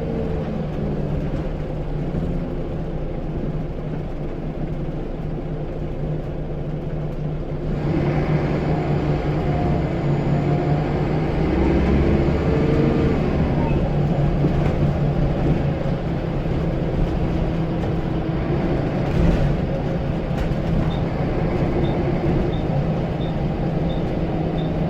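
Scania L94UB bus's diesel engine running steadily, growing louder about eight seconds in as it pulls harder. A faint turbo whistle rises and falls shortly after.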